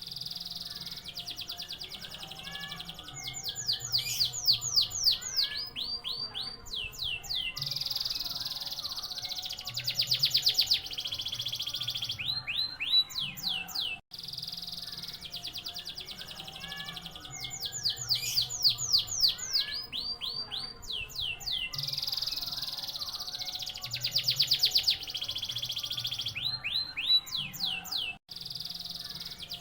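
Domestic canary singing a long song of rapid trills and rows of repeated sweeping notes. The same stretch of song plays again from about halfway through, with a brief gap where it restarts.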